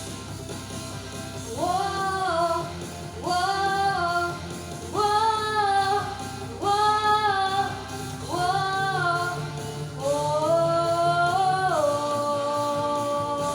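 A young girl's solo singing voice over instrumental accompaniment, in six held phrases with short breaths between them, the last drawn out longest.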